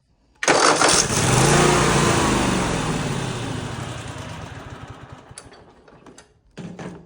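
A zero-turn mower's twin-cylinder Kohler engine, on choke, catches suddenly about half a second in and runs, then slows and fades out over the next few seconds. It is dying for lack of fuel: the tank is empty.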